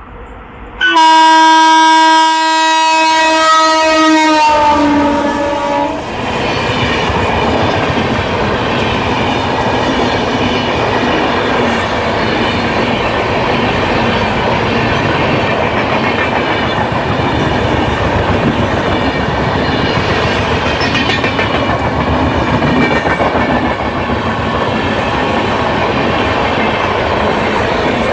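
Indian Railways locomotive sounds one long horn blast, its pitch dropping at the end as it passes. Then the train runs by with steady wheel-on-rail noise.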